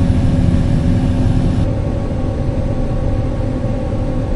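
Combine harvester running steadily: a constant engine hum with a low rumble, and a high hiss that drops away about a second and a half in.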